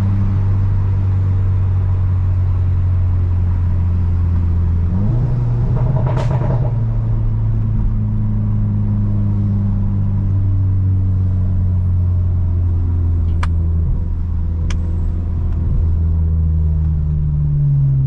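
Car engine and exhaust droning while driving, loud. About five seconds in the pitch steps up, with a brief burst of noise a second later. There are two sharp clicks later on, and the pitch rises again at the end.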